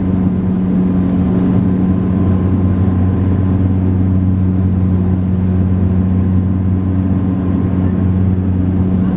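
Steady propeller drone of a Saab 340B's twin turboprops heard inside the cabin, a low pitched hum with a higher overtone and a faint thin whine, holding an even pitch and level.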